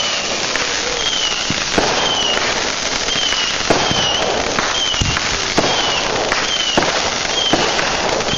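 Consumer fireworks going off: continuous crackling with scattered sharp bangs, and short falling whistles repeating more than once a second.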